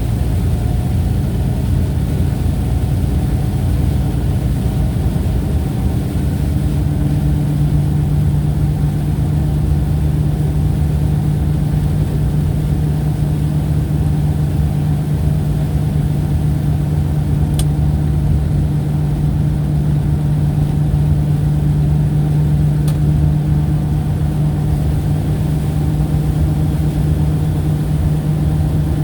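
Steady low drone, engine-like, with a hum that settles in about six seconds in and holds on.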